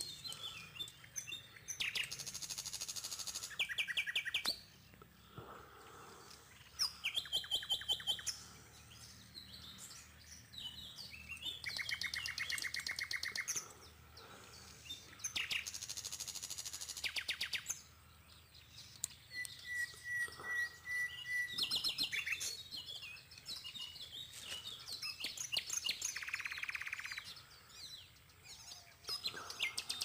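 Birds chirping and calling, with rapid trills a second or two long recurring every few seconds and one drawn-out whistled note about two-thirds of the way through.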